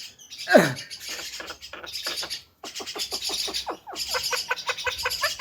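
Javan myna calling: a loud falling whistle, then a fast chattering run of short falling notes.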